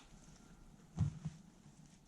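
Wood fire crackling with faint sparse pops, and a low, dull thump about a second in, followed by a softer second one.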